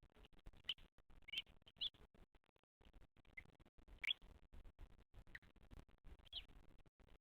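Faint, scattered short rising chirps from a bird, several of them spread through, over a faint crackling background.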